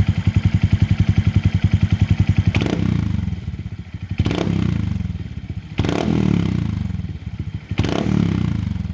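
2022 Honda Monkey's single-cylinder engine through a Yoshimura RS3 aftermarket exhaust, idling with an even pulse and then blipped four times, each rev dropping back to idle.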